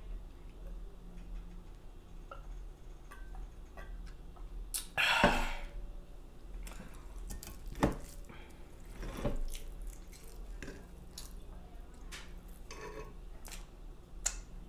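Close-miked eating sounds: scattered small clicks and wet mouth noises, with a louder noisy burst about five seconds in and a few sharp clicks of cutlery or dishes later on.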